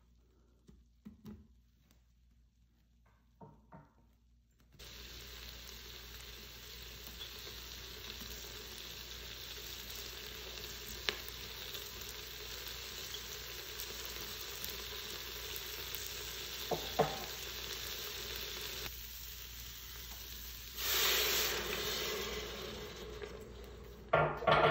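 Food frying in hot oil. After a few light knocks, sizzling starts about five seconds in and runs steadily, broken by a couple of sharp clicks and a louder surge of sizzling about 21 seconds in.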